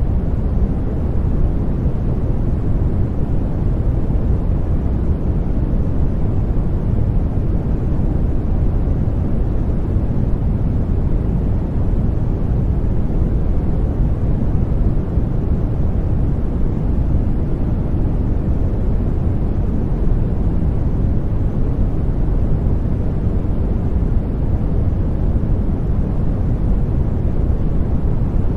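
Steady sleep noise for a baby: an even, unbroken rush, heaviest in the low end so it sounds deep and rumbling rather than hissy, with no changes.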